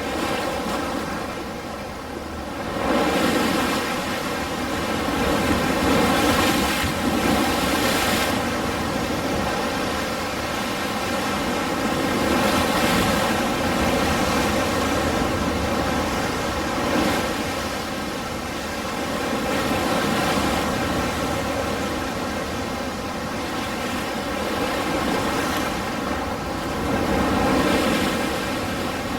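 Ocean surf: a continuous rush of breaking waves that swells and ebbs as each wave comes in, about every four to six seconds.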